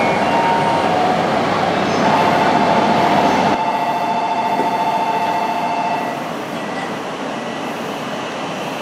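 E6 series Shinkansen train moving out close past the microphone, with a steady rushing running noise. About two seconds in, a steady two-pitch tone sets in. The rush drops off sharply about three and a half seconds in, and the tone fades near the six-second mark, leaving a quieter steady background.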